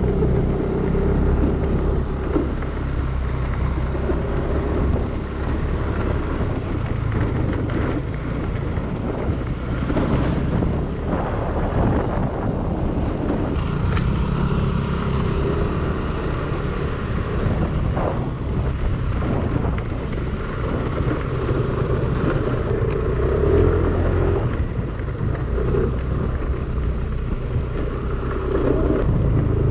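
Yamaha Aerox 155 scooter's single-cylinder engine running as it is ridden, a continuous rumble whose note swells a little now and then with the throttle.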